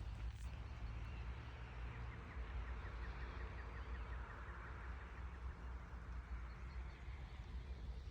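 Quiet outdoor ambience: a low wind rumble on the microphone under a soft hiss, with a faint rapid bird trill about two seconds in.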